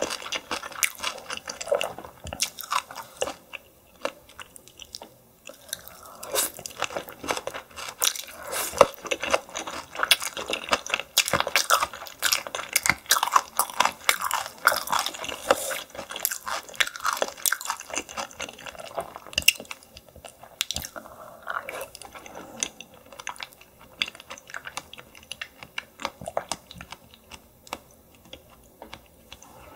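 Close-miked chewing of steamed yellow stingray, with wet, crisp crunches from its cartilage. The crunching is thick and steady for the first two-thirds, then thins to slower, sparser chewing near the end.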